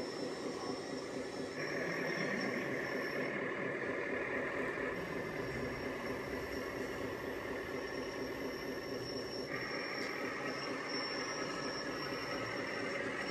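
RC model machine running: a steady, evenly pulsing engine-like drone with a high whine that comes in twice, about two seconds in and again about ten seconds in.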